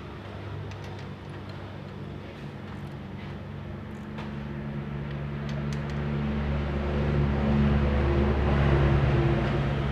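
Motorcycle engine running, growing louder over several seconds and easing slightly near the end.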